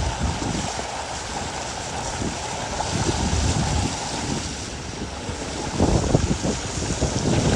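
Steady rushing of heavy rain and water, with wind buffeting the microphone in irregular gusts that grow stronger about six seconds in.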